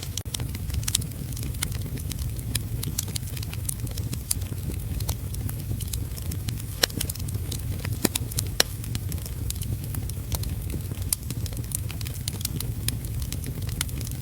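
Wood fire crackling in a fireplace: frequent, irregular sharp pops and snaps over a steady low rumble, with a few louder pops in the middle.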